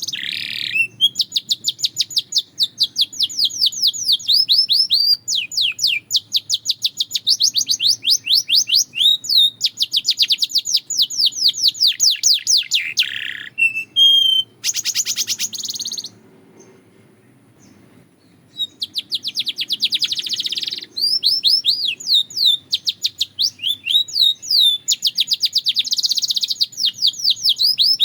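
Domestic canary singing: long rapid trills of repeated notes, one tour after another, with a pause of about two seconds midway before the song resumes.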